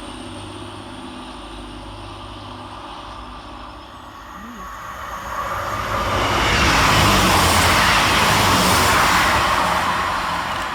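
A train passing: its noise swells from about five seconds in, stays loud for a few seconds, then fades near the end.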